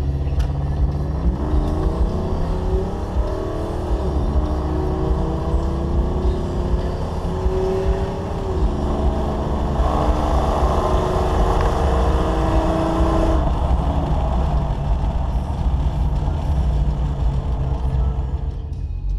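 Dodge Durango engine heard from inside the cabin, its revs climbing in two long rising sweeps with a brief drop between, then running louder for a few seconds before settling to a lower steady note.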